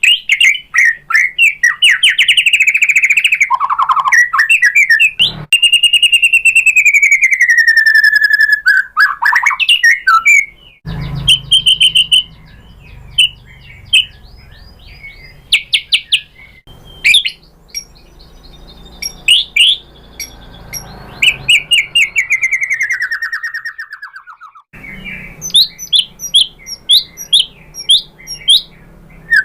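White-rumped shama singing: loud, varied whistled phrases with long sliding notes and rapid trills. About ten seconds in the song turns sparse, with separate short notes over a low hum, and the full song picks up again near the end.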